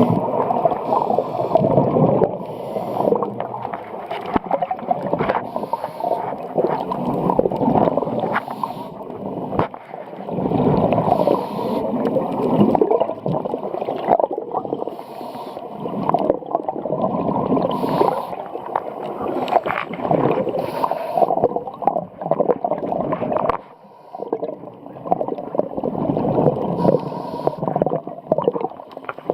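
Underwater sound of scuba diving: a continuous bubbling, gurgling rumble of the diver's regulator exhaust bubbles and water rushing past in a strong current, with a short hiss every few seconds.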